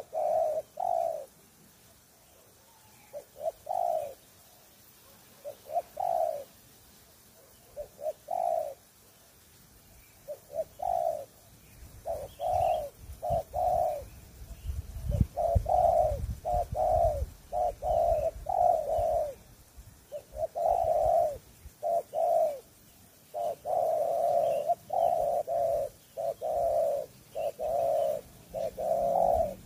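Spotted doves cooing, short low coos repeated in runs that grow busier in the second half. A low rumble rises under the calls about halfway through.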